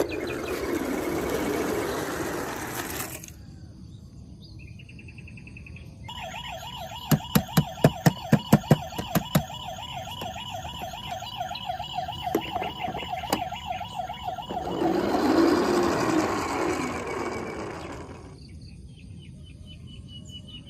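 Toy emergency vehicle's electronic siren warbling for several seconds, with a quick run of loud clicks near its start. Before and after the siren there is a rushing noise.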